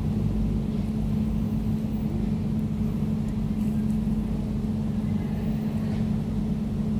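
Air conditioner running steadily: a constant low hum with one clear droning tone and little sound higher up.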